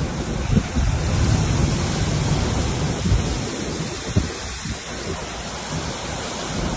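Heavy rain falling in a steady hiss, with a low rumble and a few brief low buffets underneath.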